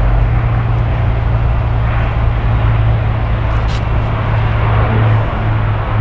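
Steady, loud, low rumble of jet airliner engines, with a brief sharp click a little past halfway.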